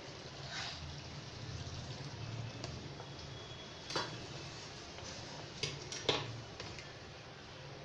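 Chicken curry cooking in a pan as it is stirred and fried down in its masala, with a steady sizzle over a low hum. A metal spatula clinks sharply against the pan about four seconds in and a few times around six seconds in.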